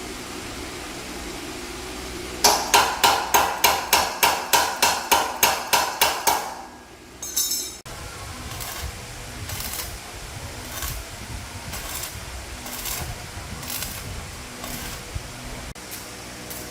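A hammer striking metal in a quick series, about four ringing blows a second for some four seconds. A short hiss follows, then softer strokes roughly once a second.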